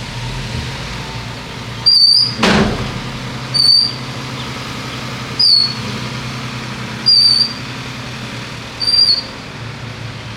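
Bulldozer engine running steadily, with a short high squeak repeating about every second and three-quarters, five times in all. There is a loud falling burst of noise about two and a half seconds in.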